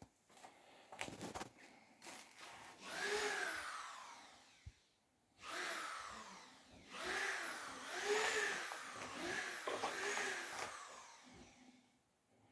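Electric drill run in about six short bursts, its motor pitch rising and falling with each pull of the trigger, after a few clicks at the start.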